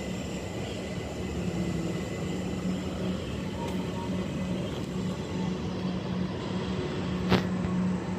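London Overground Class 378 Electrostar electric train approaching and running in along the platform, a steady rumble with a low hum. A single sharp click about seven seconds in.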